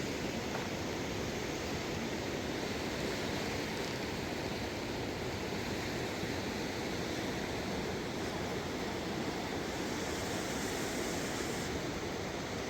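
Steady rushing of a river swollen in flood, running without a break.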